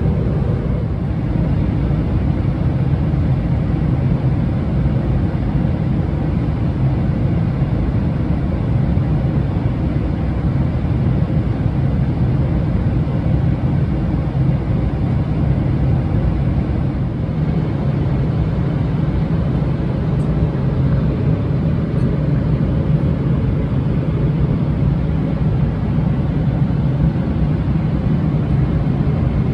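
Steady cabin noise of a Boeing 777-300ER airliner: an even, low rumble of engines and rushing air that holds level throughout.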